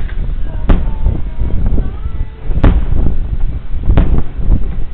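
Fireworks going off: three sharp bangs, about a second or two apart, over a continuous low rumble.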